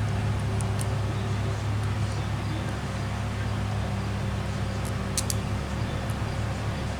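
A steady low machine hum, with a few light clicks of small parts being handled about a second in and again about five seconds in.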